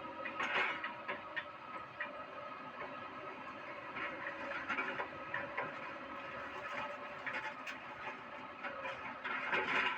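Doosan excavator running with a steady whine, while scrap iron clanks and scrapes as it is moved, loudest about half a second in and again near the end.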